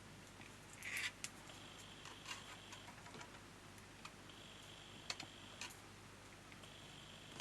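Faint handling sounds of floral tape being wrapped and pinched around a paper flower's wire stem: scattered small clicks and ticks, with one louder crinkly rustle about a second in.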